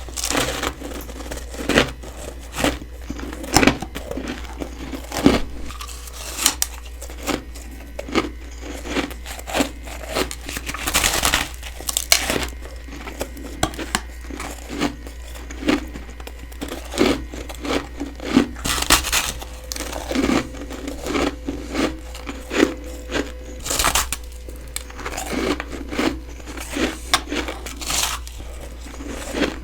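Biting into chunks of freezer frost: a steady run of crisp, crumbly crunches, about one or two bites a second with short pauses between.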